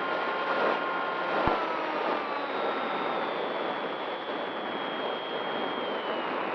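Steady wind rush with the thin whine of an RC model plane's electric motor, its pitch sliding slowly down. There is one short knock about a second and a half in.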